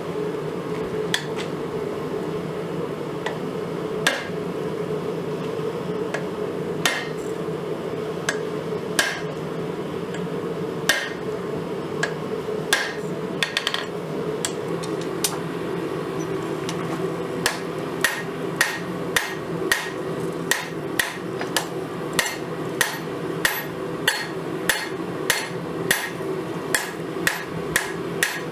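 Hand hammer striking hot spring steel on an anvil during forging, with sharp metallic blows. At first they come every couple of seconds, then from about two-thirds of the way in they settle into a steady rhythm of nearly two blows a second, over a steady low hum.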